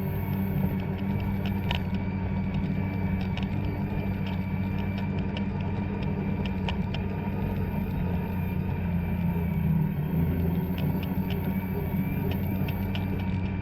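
Two-stroke snowmobile engine running at a fairly steady speed, with frequent light ticks over the engine note.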